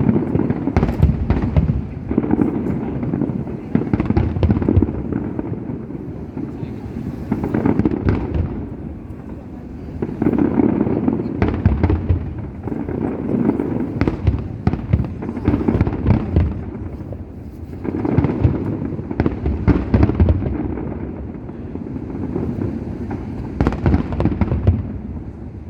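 Fireworks display: many sharp cracks of bursting shells, irregular and sometimes in quick clusters, over a rolling low rumble, with crowd voices underneath.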